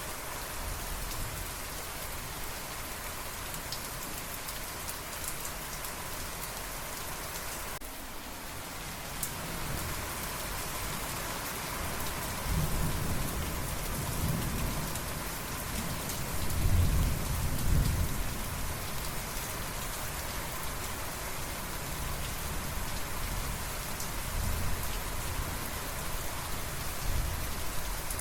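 Steady rain falling, with thunder rolling in low from a little before halfway, loudest about two-thirds of the way through, then rumbling on more softly.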